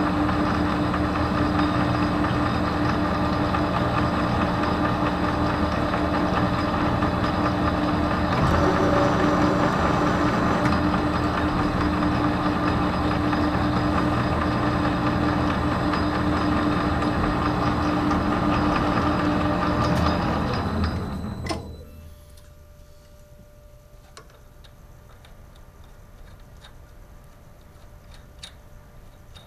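Metal lathe running steadily, then switched off about three-quarters of the way through and spinning down to a stop, followed by a few faint clicks.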